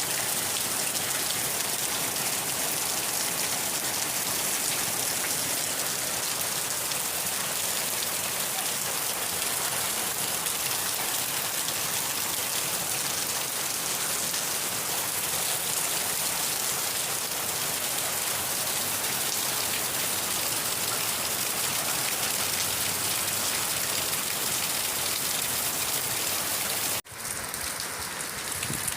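Steady rain falling as an even hiss. Near the end it cuts out for an instant and comes back a little quieter, with less of the high hiss.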